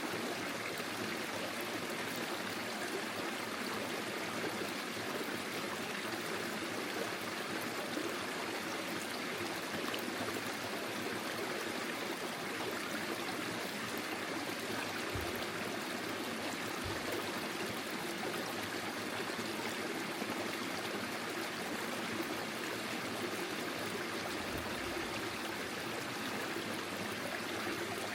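Forest stream flowing steadily, water rushing and trickling over its bed.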